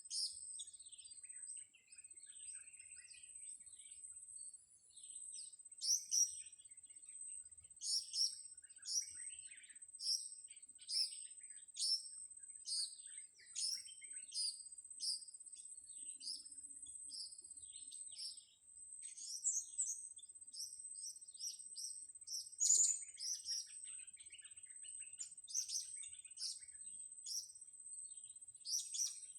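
Blue-crowned hanging parrots (serindit) giving short, sharp, high-pitched chirps, about one a second, with a quick flurry of calls near the end. A steady high-pitched whine runs underneath.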